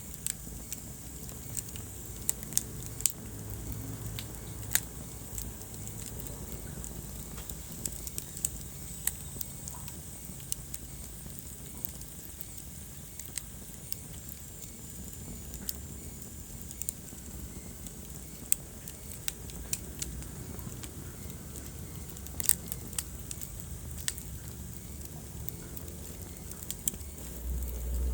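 Wood fire crackling in a fireplace: irregular sharp pops and snaps, several a second, over a steady low rumble of the burning fire. The rumble swells briefly near the end.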